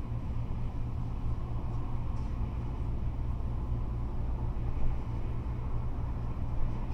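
Freeway traffic: a steady, low rumble of cars and trucks driving past.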